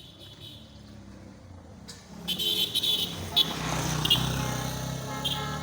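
Locomotive approaching, its running noise and low engine hum growing louder from about two seconds in.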